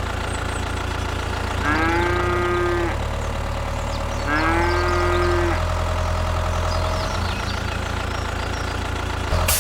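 A cow mooing twice, each call about a second long, over a steady low drone.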